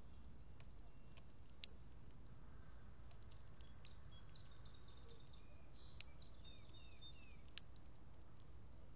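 Faint songbird chirps: a cluster of short high notes from about a third of the way in, and a few quick downward-sliding notes near the end, with a few sharp clicks, over a low steady background rumble.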